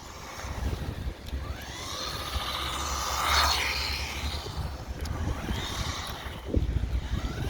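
Brushed electric motor of a 1/16-scale SG-1603 RC drift truck whining, rising and falling in pitch as it speeds up and slows, loudest about halfway through. Tyre scrub and wind rumble on the microphone lie underneath.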